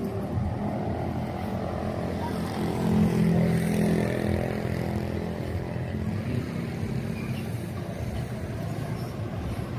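Street traffic with one motor vehicle's engine passing close, growing louder to a peak about three seconds in and fading away over the next few seconds.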